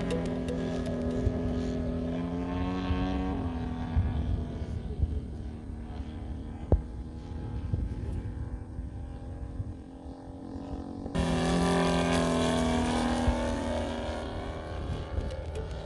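Engine of a 40% scale Extra 300 RC aerobatic plane running with a steady pitched drone. The drone cuts off abruptly about three seconds in, leaving a low rumble, then returns suddenly near the end and fades.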